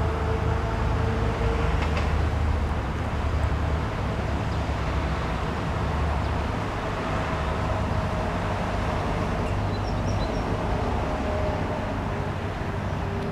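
Steady low rumble of vehicle traffic, with a few faint high chirps about ten seconds in.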